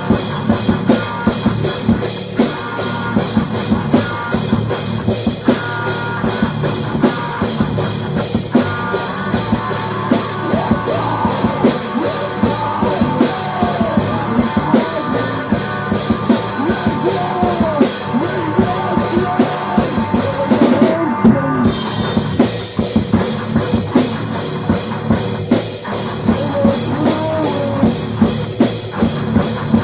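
Rock band playing: a drum kit keeps a steady beat under bass and guitar, and a lead line with bending notes runs over the middle. The high end drops out briefly about two-thirds of the way through.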